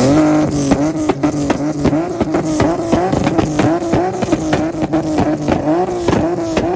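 Infiniti's VQ V6 snaps up in revs and sits on a two-step rev limiter. Its pitch holds flat while the limiter cuts in and out in a rapid, uneven stutter of pops and bangs.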